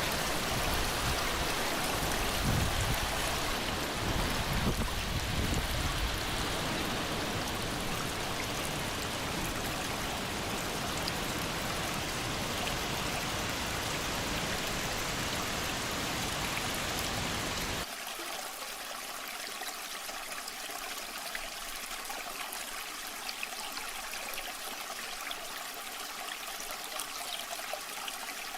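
Steady rushing water of a waterfall, full and deep at first. About two-thirds of the way through it changes abruptly to a thinner, lighter splashing without the deep rumble.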